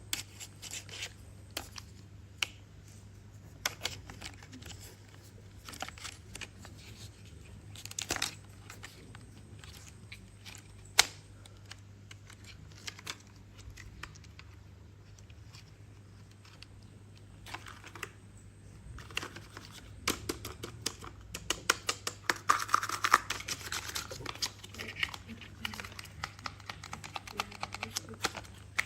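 Hands handling small objects: scattered clicks, taps and light rustling, one sharp click near the middle, then a quicker run of clicks and rustling in the last third, over a faint steady low hum.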